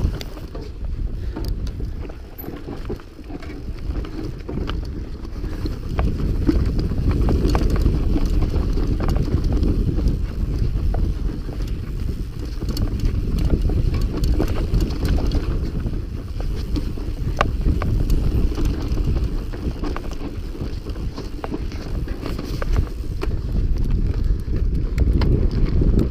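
Wind buffeting the microphone of a mountain bike moving at speed, a rising and falling low rumble, with many small rattles and ticks from the bike jolting over rough trail.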